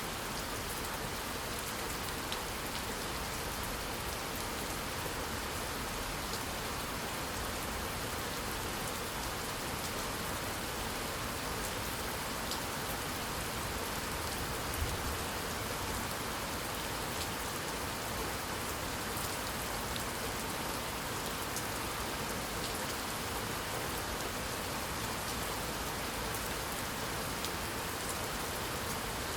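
Steady rainfall, an even hiss with individual drops ticking as they hit a surface.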